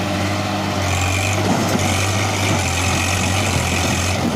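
Heavy diesel engine running loud and steady at a constant pitch, with a deep hum.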